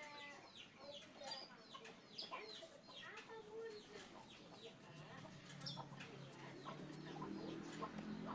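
Faint bird chirps: many short, falling calls following one another throughout. A low steady hum comes in about five seconds in.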